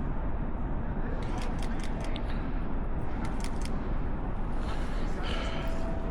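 Steady low rumble of blizzard wind buffeting the microphone, with a quick run of short sharp clicks from about one to four seconds in.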